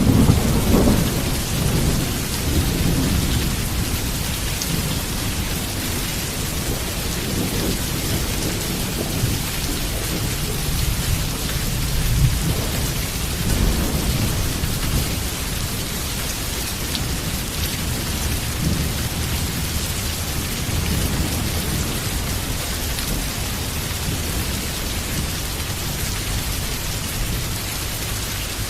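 Heavy rain falling steadily with thunder. A loud thunderclap right at the start rolls off into rumbling, and more low rolls of thunder swell and fade several times further on.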